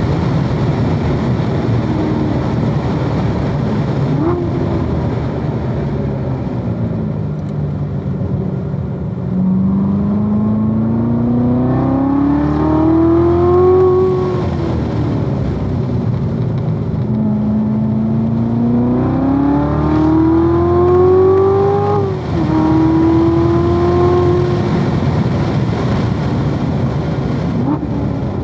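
2016 Corvette Z06's supercharged 6.2-litre V8 under hard acceleration on a race track. Its pitch climbs steadily twice and drops sharply at each upshift, with a falling stretch in between as it slows.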